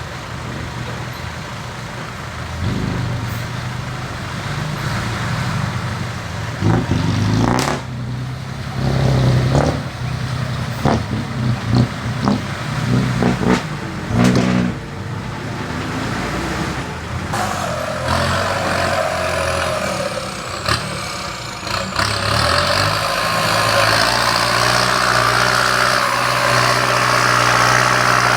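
Heavy machinery diesel engines running steadily, with a series of sharp knocks and clanks in the middle. A louder, steady rushing noise builds over the last third.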